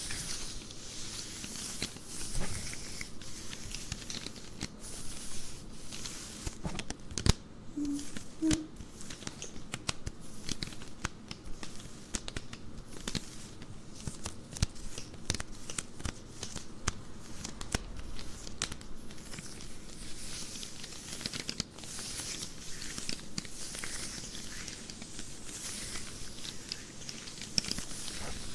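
Close-up scratching and rubbing on nylon stockings: a continuous crackly, rustling scratch full of small sharp clicks, with one louder click about seven seconds in.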